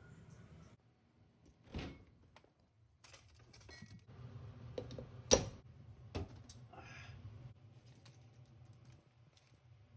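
Scattered clicks and light knocks of kitchen utensils and containers being handled during food preparation, with one sharper knock about five seconds in.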